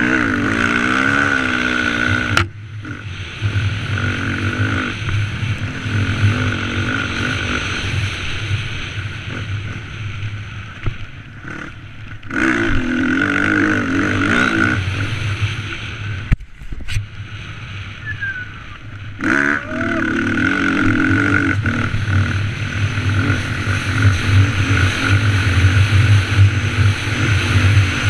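Dirt bike engines running and revving up and down as the bikes ride trails, the engine pitch rising and falling, with several abrupt changes in the sound where shots are cut together.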